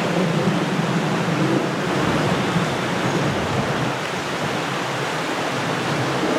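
Rushing river water: a steady, even noise.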